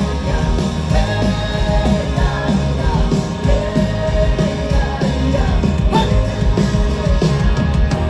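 Live rock band playing a song, with a sung melody over it.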